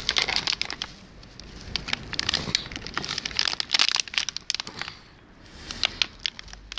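Plastic crinkling and crackling in quick irregular snaps, handled and tugged at by hand as something stuck is worked free. It eases off briefly about five seconds in.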